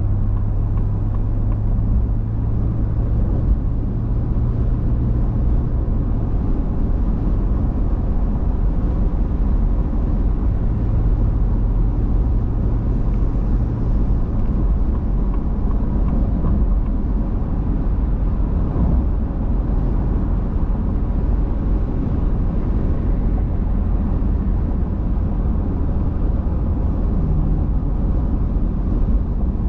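A car on the road: steady road and engine noise. A low hum comes in twice, in the first six seconds and again from about ten to fourteen seconds in.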